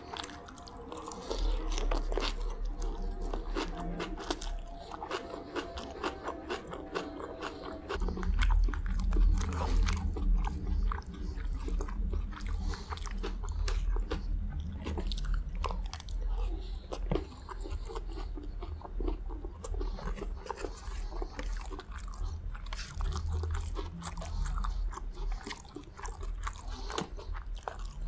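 Close-miked chewing and crunching of a mouthful of raw salad leaves, with many small sharp clicks and wet mouth sounds over a deep low rumble.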